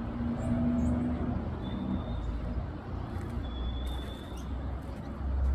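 A low motor rumble over background noise, with a steady hum that fades out about two seconds in. Two faint, thin, level bird whistles sound, about two and four seconds in.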